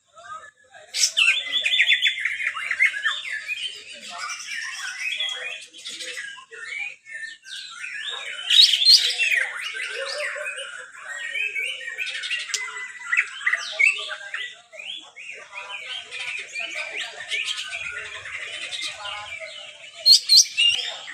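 Several white-rumped shamas singing at once in a dense chorus of overlapping whistled phrases and fast chattering, with louder bursts of song about halfway through and again near the end.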